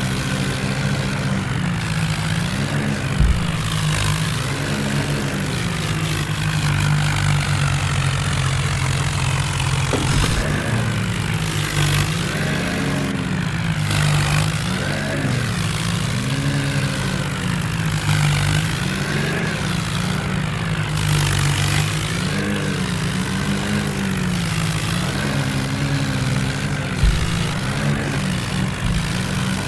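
Massey Ferguson tractor's diesel engine running hard under load, its pitch rising and falling every second or two as it strains in a tug-of-war pull against another tractor.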